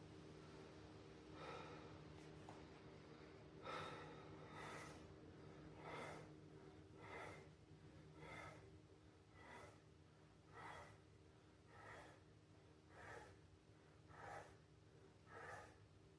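A man breathing out hard in time with each crunch during an ab workout, about one breath a second, a dozen times over. The breaths are faint.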